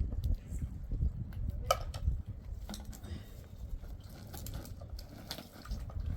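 Faint voices over a steady low noise, with a few light clicks or knocks scattered through.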